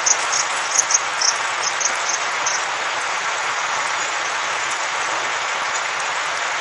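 Steady rushing blizzard wind, with a run of short, high-pitched ticks over the first two and a half seconds.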